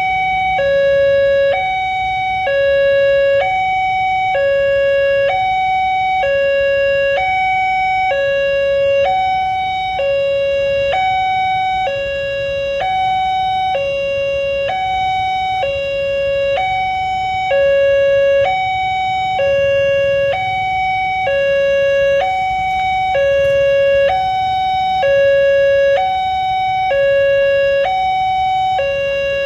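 Railway level crossing warning alarm sounding a steady two-tone hi-lo signal, the higher and lower tones alternating about once a second, warning that a train is approaching. A faint low traffic rumble runs underneath.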